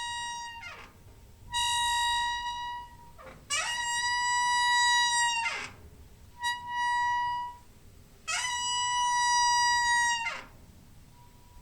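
Door hinge squeaking in long, steady, high squeals: the end of one squeal, then four more, each one to two seconds long with a short pause between. Each squeal slides up in pitch as it starts and slides down as it dies away.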